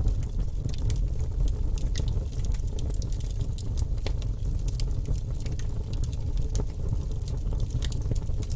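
Wood fire in a fireplace crackling: many small, irregular sharp pops over a steady low rumble.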